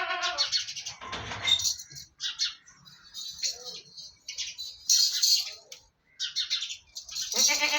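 Small birds chirping and tweeting in scattered short calls, with a goat's bleat trailing off just after the start and another bleat beginning near the end.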